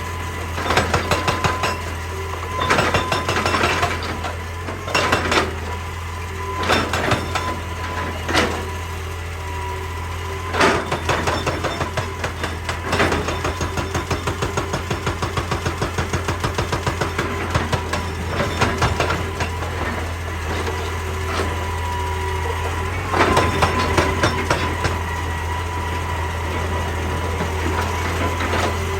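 Heavy excavator's diesel engine running steadily under a rumble, with repeated sharp knocks of rock and metal. A long run of rapid, even knocking comes in the middle.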